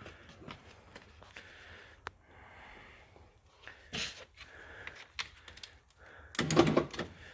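Scattered light clicks, taps and rattles of hands and tools working on the latch and handle parts inside a car door, with a louder clatter near the end.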